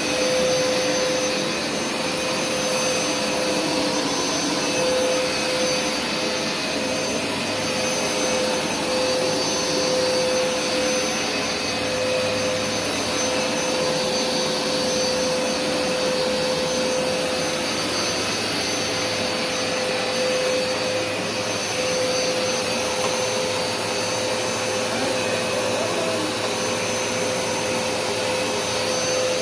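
Hoover SmartWash carpet washer running steadily on its dry pass, its suction motor drawing air and moisture up without spraying, with a steady whine over the rush of air.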